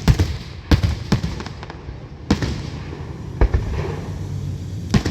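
Aerial fireworks shells bursting in a display, about six sharp booms with a low rumble between them.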